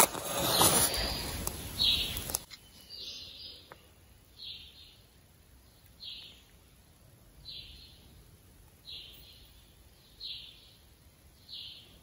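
Rustling and handling noise for the first couple of seconds, then a short, high chirp repeated evenly about every second and a half, like a small bird calling.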